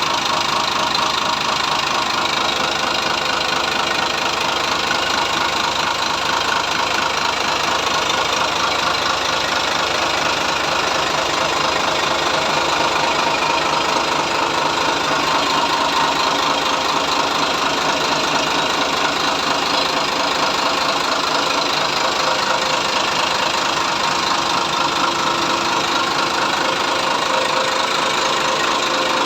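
Sinotruk 280 hp diesel engine running steadily, with no change in speed.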